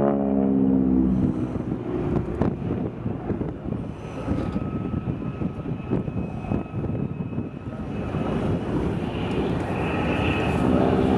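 Propeller warbird's 1,000-horsepower piston engine heard as the plane flies aerobatics. At the start the drone drops in pitch as the plane passes. It then turns rough and fainter, and near the end it comes back louder with a rising pitch as the plane returns.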